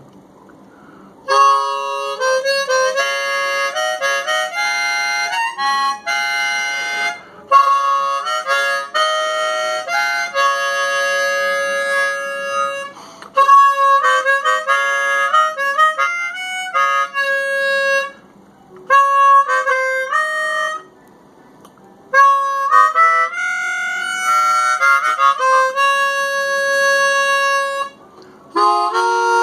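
Pre-World War II Hohner Super Chromonica chromatic harmonica played in phrases of held notes and chords, with short pauses between phrases. The reeds are old and worn, and some notes don't sound cleanly.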